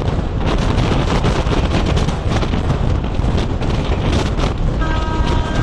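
Wind buffeting the microphone over the steady rumble of the Garib Rath express train running at speed, heard from an open coach door. Near the end a horn sounds, held for about a second.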